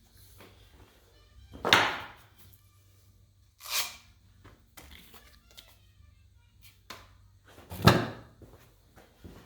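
Workshop handling sounds: a loud knock about two seconds in, a brief hissing scrape near the middle, and another loud knock near the end, with small clicks in between.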